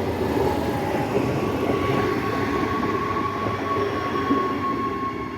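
Adelaide Metro commuter train running along the station platform: a steady rumble of wheels on rails, with a high steady whine coming in about a second in and holding.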